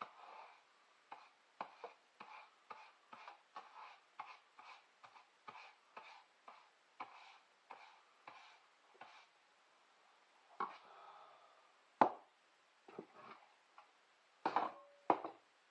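A regular run of light clicks, about two a second, followed by a few louder, irregular knocks near the end.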